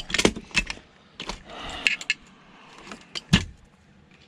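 Metal parts and hand tools clinking and knocking during a teardown, as a part held by a circlip is worked at: a run of sharp clicks in the first two seconds, then one louder, heavier knock near the end.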